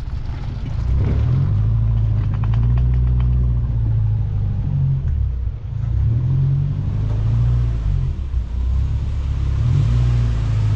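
Renault 4 van's four-cylinder engine running at low revs while the van is driven slowly, the engine speed rising and falling a little. A few light clicks about two seconds in.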